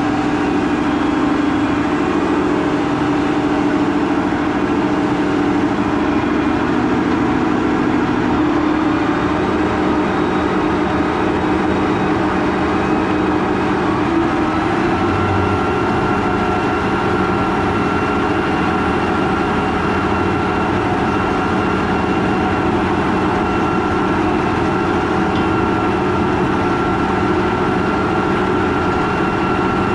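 Case IH Quadtrac 580 tracked tractor running steadily while pulling a 14-furrow plough, a continuous heavy engine drone with a steady whine over it; about halfway through the whine shifts to a higher tone.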